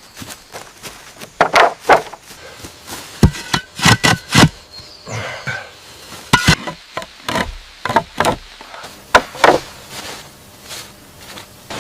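Bamboo being chopped and knocked with a blade or tool: about a dozen sharp, irregular strikes, some in quick pairs, with quieter taps and rustling between them.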